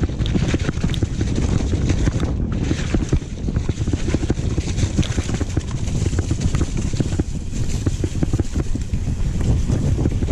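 Wind buffeting the microphone with a constant clatter from a downhill mountain bike riding over rough trail, many sharp rattling clicks running through the rush.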